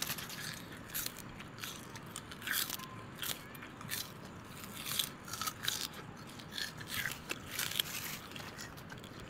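Crunchy snack being bitten and chewed: irregular crisp crunches, a few each second.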